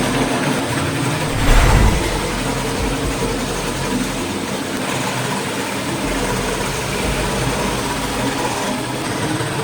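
Electric power tool running steadily, with a brief louder swell about one and a half seconds in.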